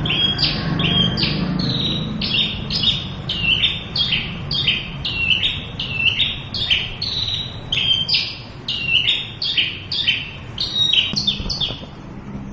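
Javan bush lark (branjangan) singing without a break: a rapid string of short, high notes, about two to three a second, alternating higher and lower.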